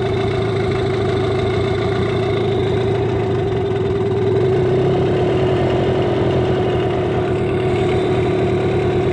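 Boat engine idling steadily, with an even drone that holds one pitch; its cooling water is coming through, a sign the engine is cooling properly.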